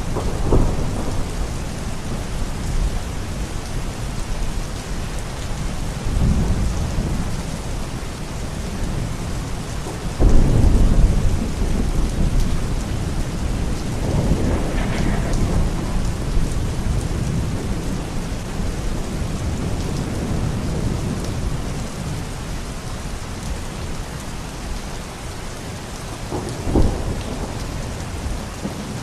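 Steady heavy rain with rolls of thunder rumbling through it, the loudest a sudden crack and rumble about ten seconds in, with smaller rolls near the start, around six and fifteen seconds, and near the end.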